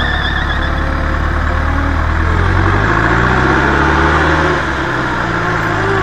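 Off-road 4x4's engine running under load, rising in pitch about two seconds in and dropping back near five seconds.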